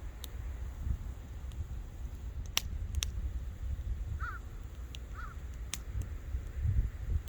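Wood campfire crackling, with scattered sharp pops over a low steady rumble of the burning. A bird calls twice in the background, about four and five seconds in.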